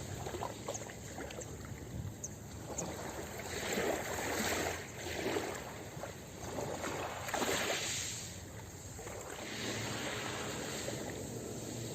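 Ocean waves washing onto a beach, the surf hiss swelling and fading in several surges.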